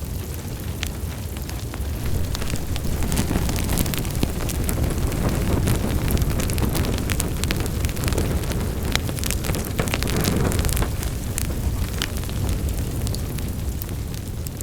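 Wood fire in a fireplace crackling, with irregular sharp pops over a steady low rumble of burning.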